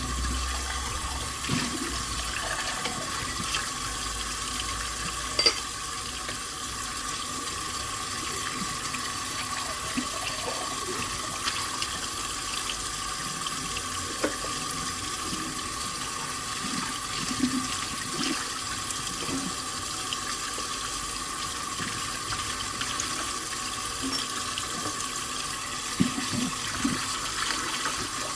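Tap water running steadily into a sink during hand dishwashing, with occasional clinks and knocks of dishes, including a few near the end.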